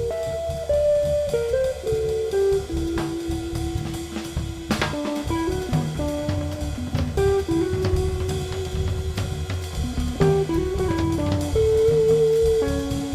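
Guitar, cello and drum kit playing together: a melody of held notes that steps up and down over a bass line, with drums and cymbal hits keeping time.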